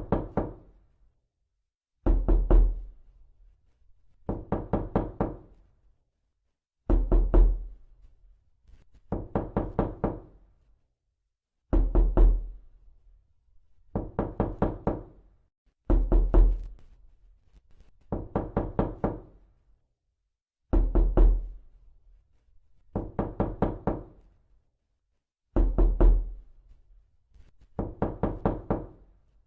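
Repeated knocking: quick runs of four or five knocks, each run with a deep thump and a short ring, coming again every two seconds or so.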